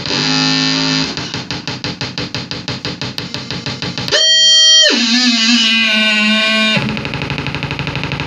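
Noise music played live on distorted, effects-processed guitar-like tones. A fast stuttering pulse comes first. About four seconds in, a loud held tone drops in pitch and holds for about two seconds, then cuts off into a rapid fluttering buzz.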